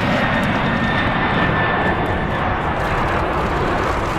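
Large airplane's engines running, a steady rushing noise with a thin, high whine over it.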